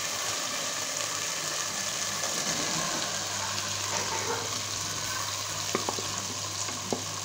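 Tomato-onion masala sizzling steadily in oil in a pot as fried okra is added, with a few short clicks near the end.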